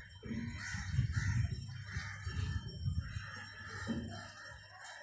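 Harsh bird calls, repeated about five times, each lasting up to a second, over a low rumble.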